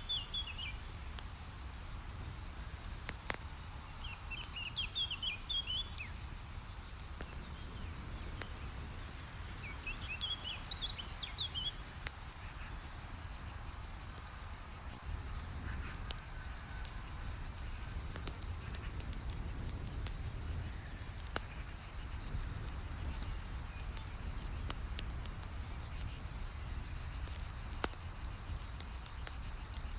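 Campfire crackling with scattered sharp pops over a steady low rumble, with crickets or other insects keeping up a high steady trill. A songbird sings three short warbling phrases, at the start, about four seconds in and about ten seconds in.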